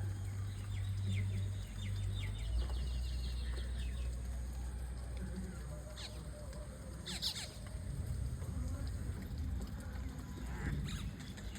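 Common myna calling: runs of quick chattering, clicking notes in the first few seconds, then a few short harsh calls later on, over a steady low hum.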